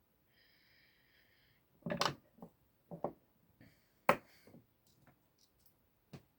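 Screwdriver bits being swapped: a brief faint high ringing, then a series of sharp clicks and knocks of small metal parts being handled, loudest about two and four seconds in.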